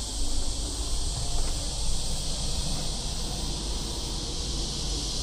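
A chorus of cicadas droning in a steady, continuous high buzz, with a low rumble and a few soft bumps underneath.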